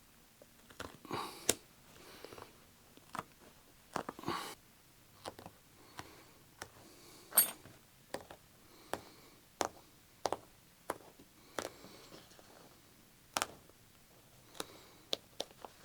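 A sharp blade cutting through the stitching on a car seat cover: irregular small snaps and clicks as threads part, with brief scratches of the blade and the cover material being handled.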